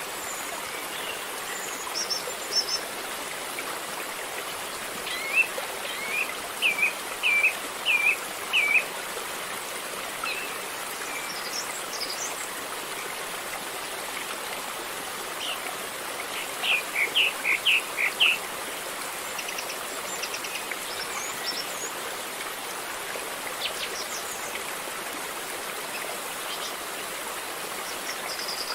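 River water flowing in a steady rush. A bird calls over it in runs of short chirps, one run a few seconds in and another past the middle, with a few thinner high notes scattered between.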